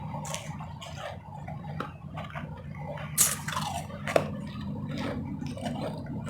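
Close-up chewing of crunchy ice: a few sharp crunches, the loudest about three seconds in, with softer crackly chewing between them, over a steady low hum.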